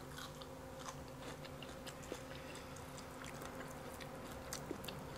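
A person chewing deep-fried catfish close to the microphone, with faint soft mouth clicks scattered throughout, over a faint steady hum.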